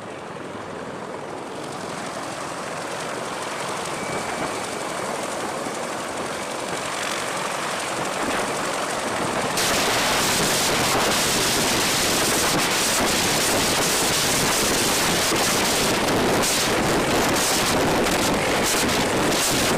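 Steady rushing aircraft noise that slowly grows louder, then jumps louder and harsher about ten seconds in, with gusts of wind buffeting the microphone.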